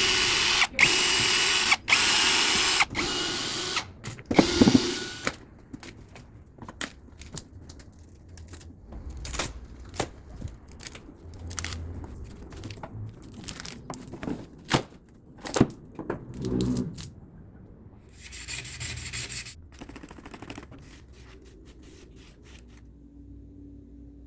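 A woodworking power tool running loudly in several short bursts, followed by scattered knocks and clicks of wood being handled on the bench, with a brief burst of tool noise later on.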